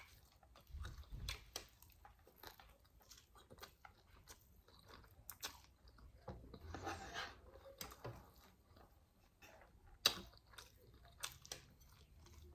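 A person chewing food close to the microphone, with many small wet mouth clicks, a longer soft chewing sound about seven seconds in, and a sharper click about ten seconds in.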